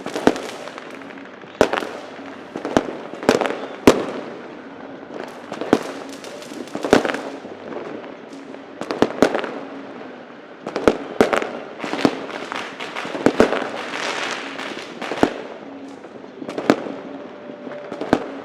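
Fireworks and firecrackers exploding in a steady, irregular string of sharp bangs, roughly one a second. Each bang has a short echoing tail, and there is a continuous crackle of smaller, more distant bangs between them.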